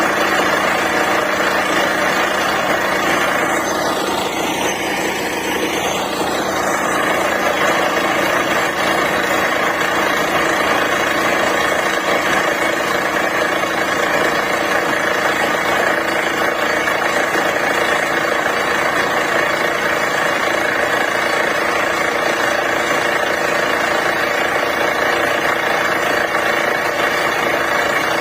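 Borewell drilling rig running steadily under load: a continuous loud engine-and-drilling noise, with a brief dip and a falling-then-rising sweep in pitch about four to six seconds in.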